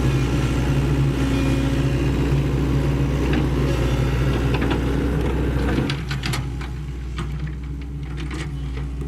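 Sany SY75C hydraulic excavator's diesel engine running steadily, then easing off to a quieter, lower note about six seconds in. A scatter of sharp knocks and clanks follows.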